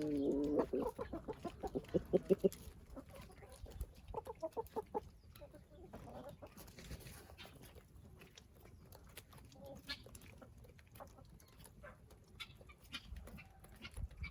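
Chickens clucking: a loud, fast run of clucks in the first two seconds or so, a shorter run about four seconds in, then quieter clucks and scattered small clicks.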